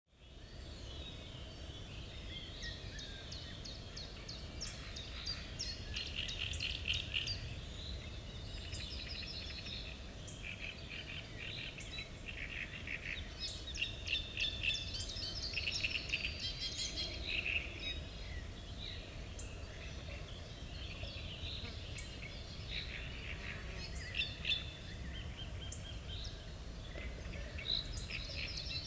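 Songbirds singing and chirping, with many quick repeated notes overlapping one another, over a steady low rumble of outdoor background noise.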